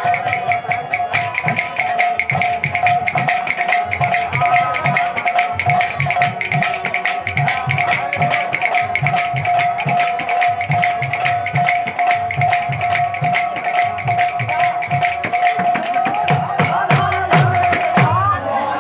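Kirtan instrumental passage: cymbals struck rapidly at about three strokes a second over drum beats, with one long held note sounding throughout. Near the end the held note gives way to a changing melody.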